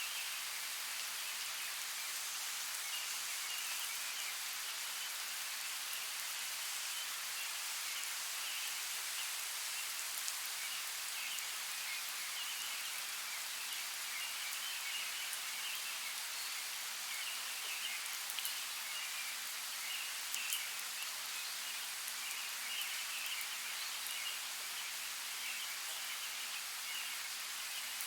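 Steady hiss of a forest creek's running water, with faint high chirping running through it and a few small clicks or drips.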